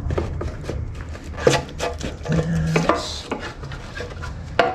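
Hands working parts loose in a dirt bike's air box: a run of knocks, clicks and scraping.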